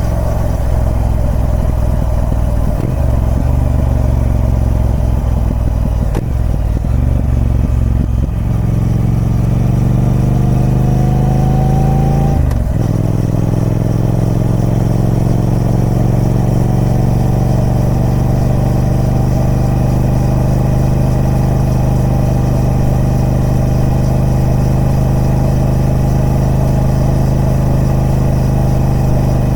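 Triumph Speed Twin 1200's parallel-twin engine running through its stock exhaust. The revs climb, drop sharply at a gear change about twelve seconds in, then rise slowly and steadily again.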